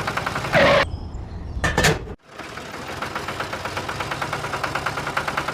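An engine running with a fast, even rattle. Two short loud sounds come in the first two seconds, and the sound cuts out abruptly just after two seconds in before the rattle picks up again.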